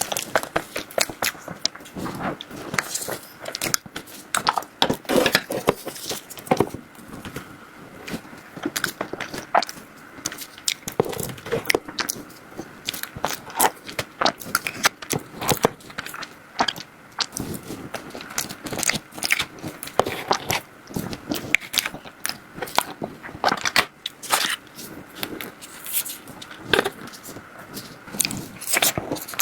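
Close-miked eating sounds of someone biting and chewing chocolate desserts, with many irregular sharp clicks of the mouth and utensils.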